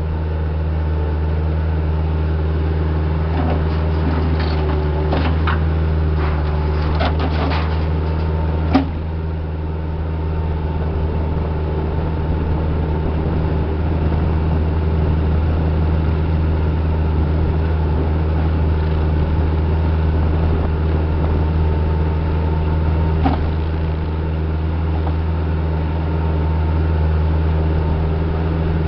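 A heavy-equipment diesel engine running steadily, with a string of sharp knocks and clanks during the first nine seconds and another about three-quarters of the way through.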